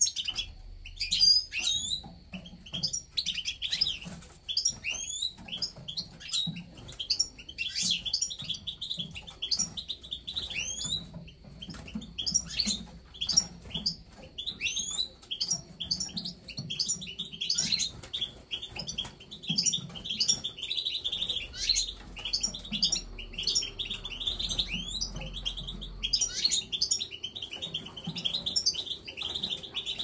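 Small cage birds chirping continuously, a dense run of short, high, rising chirps.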